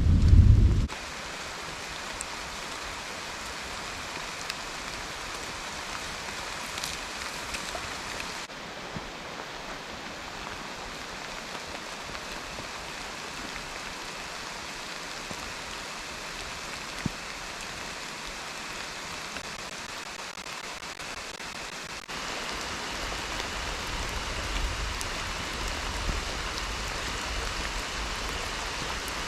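Steady rain falling. A low rumble of thunder dies away in the first second.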